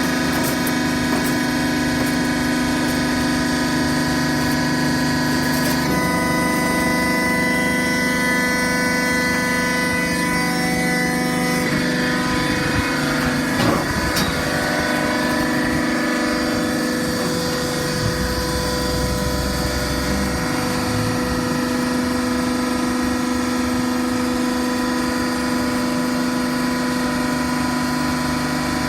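TCM-HPA60C horizontal cardboard baler running, its hydraulic power unit giving a steady mechanical hum. The hum changes tone about six seconds in and again around twelve seconds in, as the machine works through its cycle.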